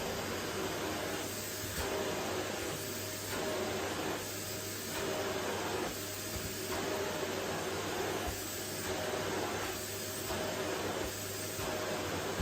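Vacuum cleaner running on a wooden floor: a steady rushing hiss over a low motor hum, swelling and dipping about once a second as the nozzle is pushed back and forth.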